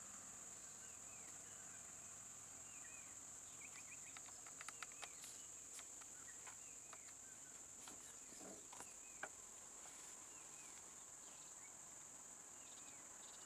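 Faint forest ambience: insects keep up a steady high drone, with short bird chirps scattered throughout and a few faint clicks near the middle.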